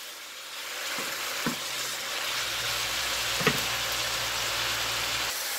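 Bean sprouts and pork sizzling steadily in a hot nonstick frying pan as they are stirred with a wooden spatula, with a few light knocks of the spatula against the pan.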